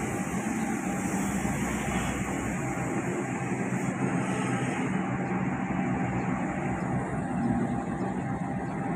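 Taksaka passenger train's diesel locomotive and carriages running through the station, a steady rumble with a low engine hum.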